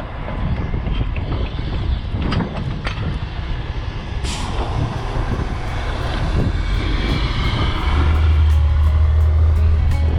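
Heavy truck engine running steadily, with a short hiss about four seconds in and a louder low drone over the last two seconds.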